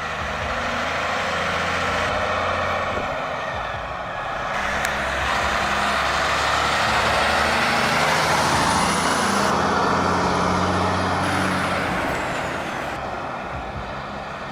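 Heavy prime mover truck's diesel engine running as it passes, swelling to its loudest about halfway through and then fading, with a thin high whine above it that rises and later drops away.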